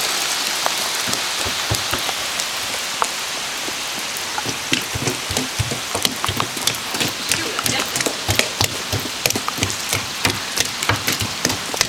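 Heavy rain coming down hard: a steady hiss with many sharp drop impacts close by, growing denser about halfway through.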